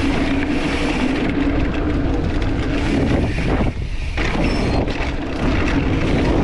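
Wind rushing over the camera microphone and mountain-bike tyres rolling fast over a dirt trail, a loud steady noise with a brief dip about four seconds in.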